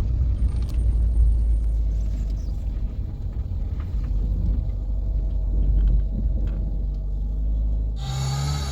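A loud, steady low rumble with a few faint clicks, which changes abruptly to a brighter sound with steady tones near the end.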